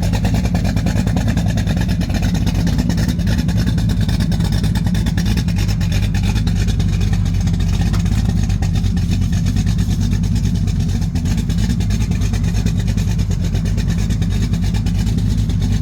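1967 Chevrolet Camaro's built 383 stroker V8 running steadily at idle, low and even, with no revving.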